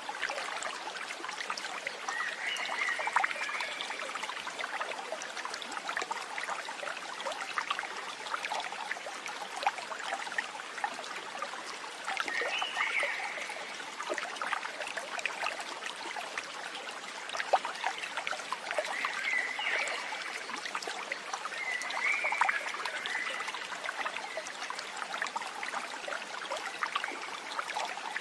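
Running water of a stream trickling and babbling steadily, with a short high animal call heard four times.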